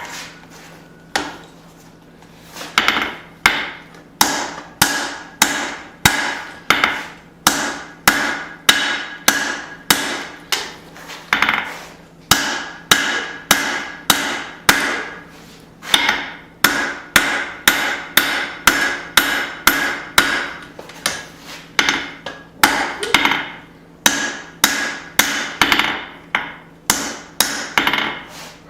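Blacksmith's hand hammer striking hot steel on an anvil while forging a small hatchet, at about two blows a second, each blow with a short metallic ring. The blows start after a pause of about two seconds.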